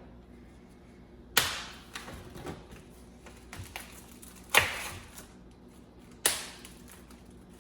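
Kitchen handling noise: three sharp knocks with a short ring-out, spread a few seconds apart, with lighter clicks and taps between, as a bowl and other items are set down and moved on a counter.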